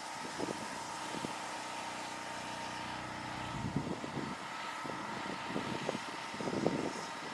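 A steady engine hum with scattered faint knocks; its low drone fades about halfway through.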